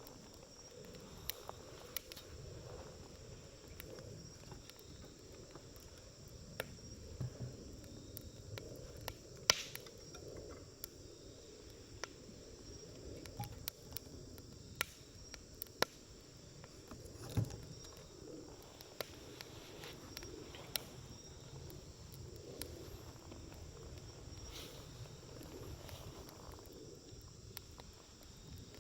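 Wood campfire burning, with irregular sharp crackles and pops from the burning wood over a low, steady rumble of the flames. A louder snap comes a little before ten seconds in and another about two thirds of the way through.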